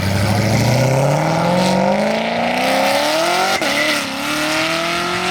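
A car engine accelerating hard at full throttle, its pitch climbing steadily. It drops at an upshift about three and a half seconds in, then pulls up again in the next gear.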